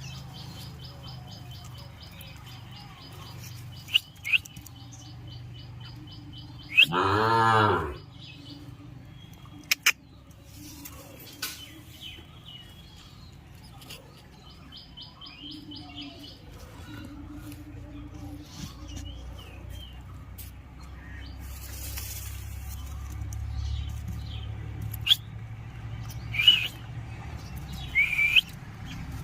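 Small birds chirping, with a fast, even ticking trill that runs for several seconds and returns later, and scattered short rising chirps near the end. About seven seconds in comes a single louder drawn-out animal call of about a second.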